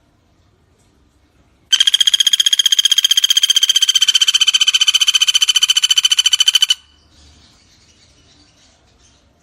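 Pelatuk bawang woodpecker giving one long, rapid trill of evenly spaced notes at a steady high pitch, lasting about five seconds and cutting off abruptly; faint frog and insect chorus before and after.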